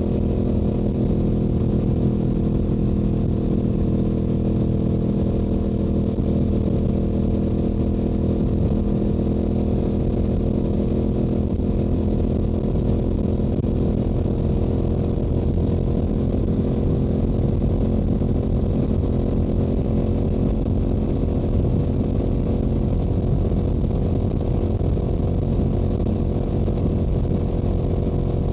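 Stock Yamaha YZF-R7's parallel-twin engine and exhaust running at a steady highway cruise, the engine note holding an even pitch.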